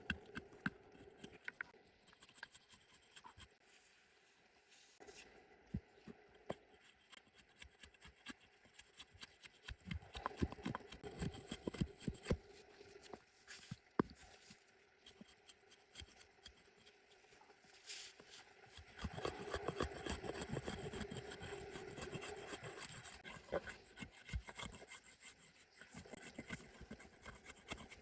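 Hand work on wood: irregular scraping and rubbing with scattered light knocks, heaviest in a denser stretch of scraping about two-thirds of the way through.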